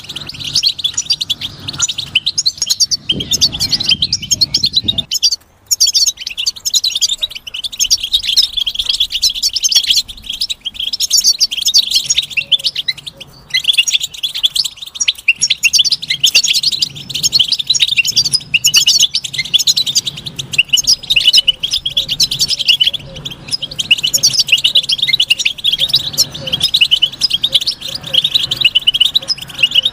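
European goldfinch singing: a fast, unbroken stream of high twittering notes, with a brief pause about five seconds in.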